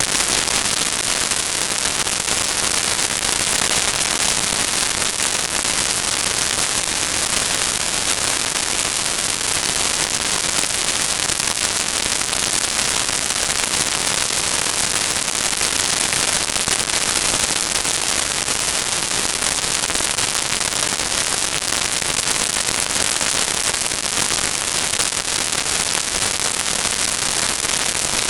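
Steady hiss and crackle of static noise that does not change and has no other sound standing out above it.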